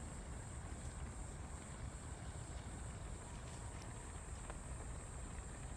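Wind on the microphone, a steady low choppy rumble, with a thin steady high hiss and a few faint light clicks.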